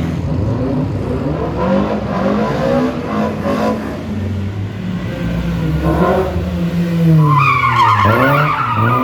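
Rally car engine revving up and down as the car slides sideways, with tyres squealing loudly from about seven seconds in.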